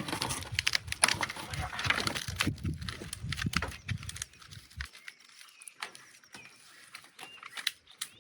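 Bamboo cane being bent and broken: a dense run of cracking and splintering for about the first five seconds, then a few scattered cracks.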